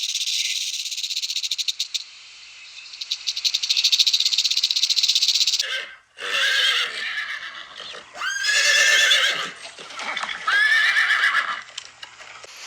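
Animal calls: a fast, rattling sound for the first five seconds or so, then three loud pitched calls, each sliding up at its start.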